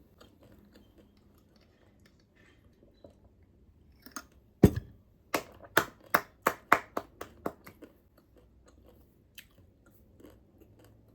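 Crunchy chewing of singju, the Manipuri raw vegetable salad: about eight sharp crunches at roughly three a second in the middle, the first the loudest, with faint crackles before and after.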